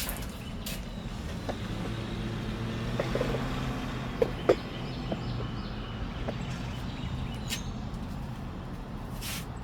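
A motor vehicle's engine running with a steady low hum that swells slightly midway, with two sharp knocks about four and a half seconds in.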